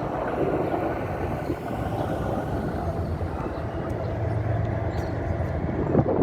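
AH-64 Apache and UH-60 Black Hawk military helicopters flying over, a steady rumble of rotors and turbine engines that gets a little louder near the end.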